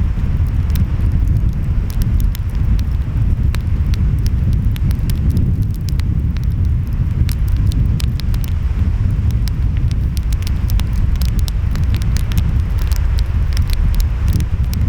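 Wood fire crackling, with many sharp pops that come thicker in the second half, over a steady low rumble of waves and wind.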